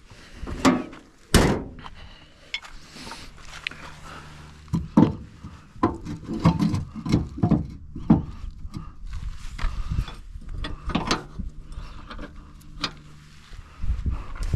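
Scattered knocks and clunks of metal parts and hand tools being handled while a driveline U-joint is fitted, some single, some in quick runs, over a faint low steady hum.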